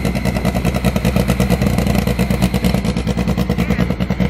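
A vehicle engine running steadily and loud, with a rapid, even pulsing exhaust note.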